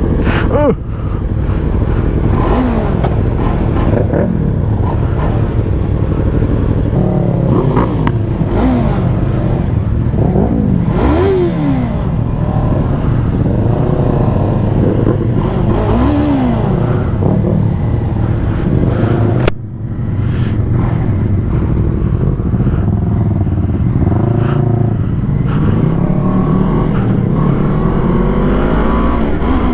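Sportbike engine under way, its pitch rising and falling several times as it revs up and shifts through the gears, over a steady loud rumble of riding noise. The sound breaks off sharply for a moment about two-thirds of the way through.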